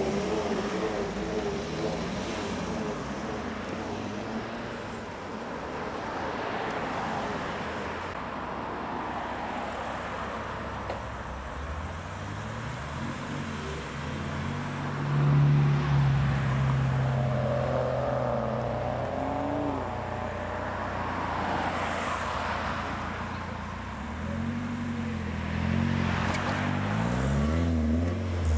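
BMW cars driving past one after another, engines running over tyre noise. One revs loudly about halfway through, and another accelerates with rising engine pitch near the end.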